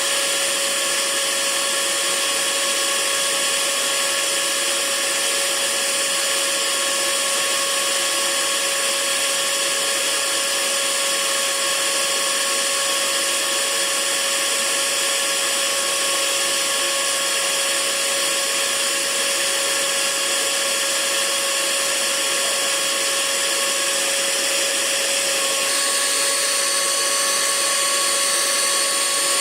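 Hair dryer running steadily: a constant rushing blow with a steady motor whine over it, which shifts slightly near the end.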